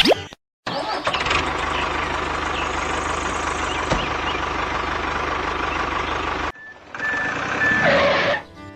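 Truck engine running steadily, then cutting off abruptly, followed by a reversing alarm beeping three times over a further engine sound.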